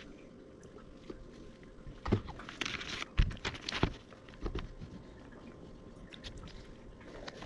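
Hand handling noises as a rubber CV boot is worked onto a car's drive axle: a few scattered knocks and scuffs, mostly in the first half, then quieter.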